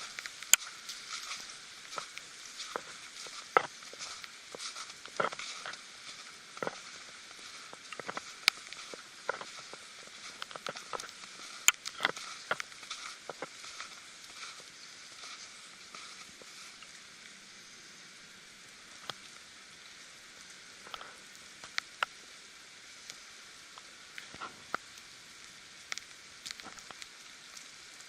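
Many small, irregular sharp ticks and patters over a steady hiss. They come thickly at first and thin out after about fifteen seconds.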